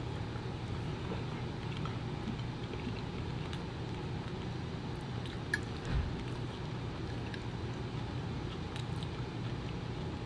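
Quiet mukbang eating sounds: a person chewing food, with a few faint clicks of a fork on a plate and a soft knock about six seconds in, over a steady low room hum.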